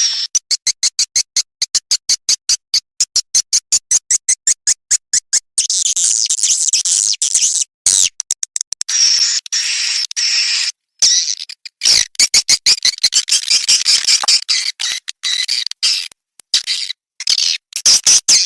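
Swiftlet lure recording: a rapid, even series of sharp chirp-clicks for the first five seconds or so, then dense, high twittering chirps broken by short gaps.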